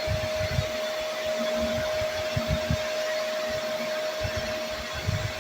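Vacmaster SCA0801 carpet and spot cleaner's motor running steadily, a rushing noise with a constant whine, along with irregular low thuds.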